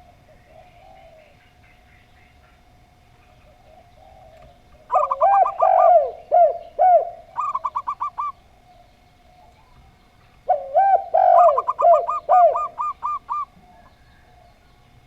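Zebra dove and spotted dove cooing in two phrases, about five and ten and a half seconds in. Each phrase is a few low arched coos under a quick run of higher notes.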